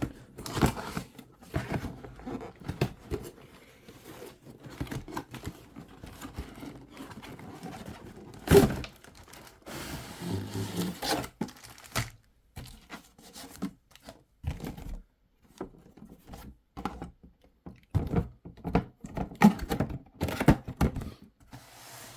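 A cardboard toy box with plastic packaging being handled and turned over in the hands: scattered knocks, scrapes and rustling, with one louder knock about eight and a half seconds in.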